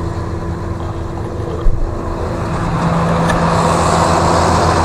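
A vehicle engine running steadily, with one short thump about a second and a half in. About three seconds in the engine grows louder, as if it is working harder.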